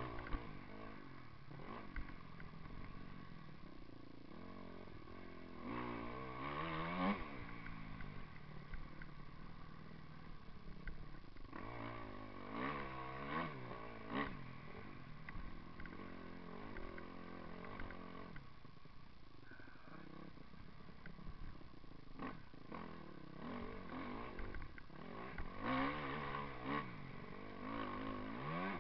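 Motocross bike engine revving up and down as it is ridden, with repeated rising pitch sweeps and louder throttle surges about six, twelve and twenty-six seconds in.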